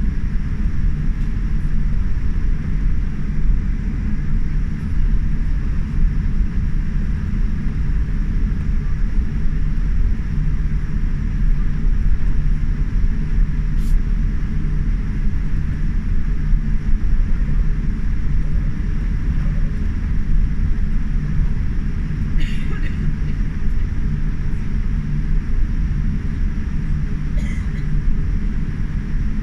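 Steady low roar of engine and airflow noise heard inside a Boeing 787 Dreamliner's cabin, with a few faint brief clicks.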